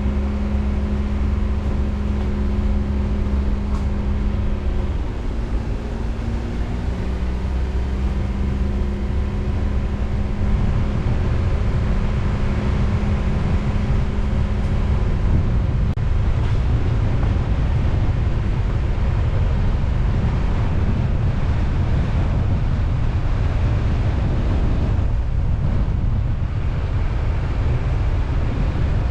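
Car driving along, its engine humming steadily with a shift in pitch about six seconds in; from about halfway the engine tone fades under rising wind and road rumble on the microphone.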